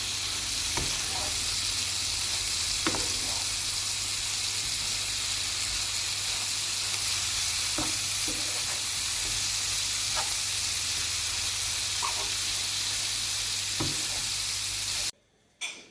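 Wild greens and egg frying in olive oil in a pan: a steady sizzle with a few light clicks scattered through it. The sizzle cuts off suddenly near the end.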